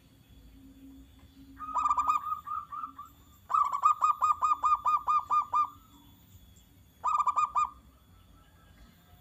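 Zebra dove (perkutut) singing: three bursts of rapid, evenly spaced staccato notes, the longest lasting about two seconds at roughly five or six notes a second.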